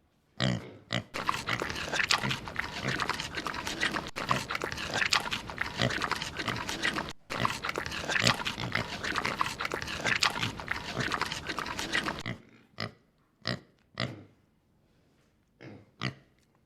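Pig grunting: dense, rapid grunts for about twelve seconds, then a few separate short grunts with gaps between them near the end.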